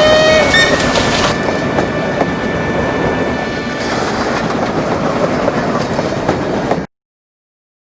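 Recorded steam train running with a steady rhythmic clatter over the rail joints. A thin high whistle-like tone dies away over the first few seconds. The sound cuts off abruptly about seven seconds in.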